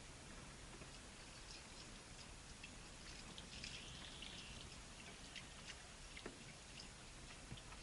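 Near silence with faint scattered ticks and one faint high bird call lasting about a second, around three and a half seconds in.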